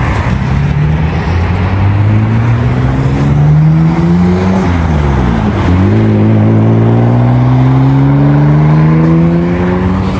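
Car engine accelerating hard: its pitch climbs for about four seconds, drops sharply at an upshift around the middle, then climbs steadily again.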